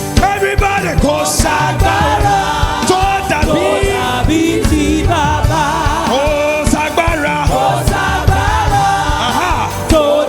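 Gospel choir and band performing, voices singing over drums and bass.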